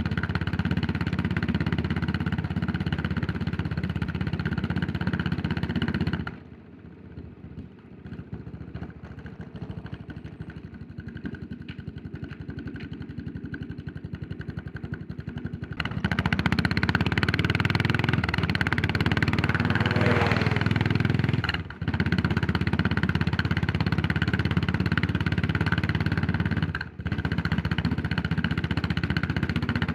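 Yamaha SR400's air-cooled single-cylinder four-stroke engine running under way. About six seconds in the throttle closes and the engine falls to a much quieter, low beat for about ten seconds, then it pulls loudly again, cutting out briefly twice later on.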